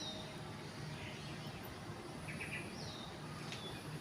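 Birds chirping outdoors: a few short, high whistles sliding downward, one at the start and another about three seconds in, with brief chirps between, over a steady faint background hiss.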